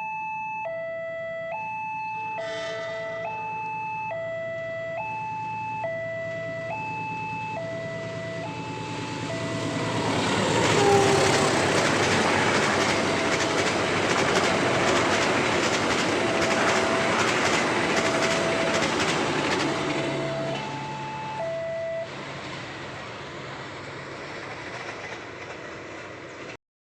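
Level-crossing warning alarm sounding in an alternating two-note pattern. About ten seconds in, a train passes loudly for around ten seconds, its wheels clacking over the rail joints, then fades. The alarm is still sounding near the end before the sound cuts off.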